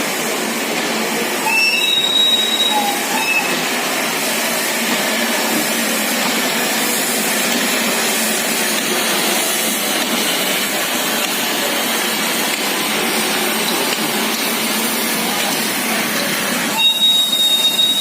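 Shimla narrow-gauge toy train running on the rails, a steady noise throughout. High-pitched wheel squeals come briefly about two seconds in and again from about a second before the end.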